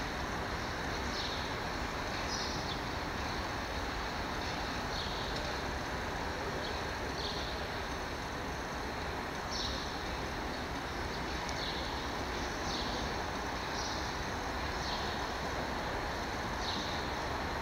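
Steady running noise of a train in motion, with short high falling chirps repeating every second or two.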